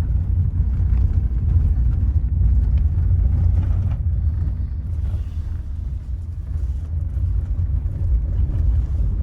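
Low, steady rumbling noise with no clear pitch and no speech.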